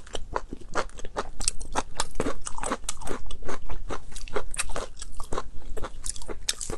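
Close-miked chewing of cooked octopus: a dense, continuous run of crunches and clicks from the mouth.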